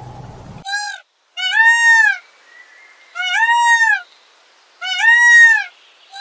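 An animal giving a run of identical short, clear calls, each rising then falling in pitch, one about every second and a half.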